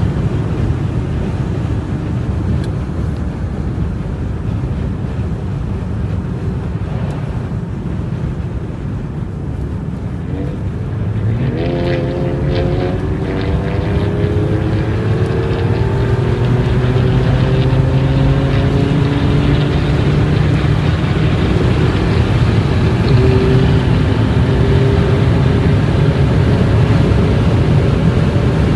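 Tuned Porsche Cayenne with downpipes, its exhaust running with a steady low rumble. About eleven seconds in, the engine note picks up and climbs slowly in pitch, getting louder toward the end as the car pulls.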